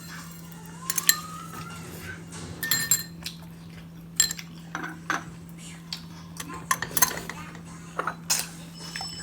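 Spoons clinking against bowls and dishes in scattered sharp taps, the sounds of eating chicken porridge from bowls.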